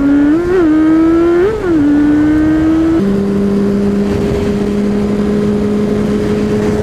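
Honda CB600F Hornet's inline-four engine under way, its pitch climbing slowly with two short rise-and-fall throttle blips in the first two seconds, then jumping up sharply about three seconds in and holding steady.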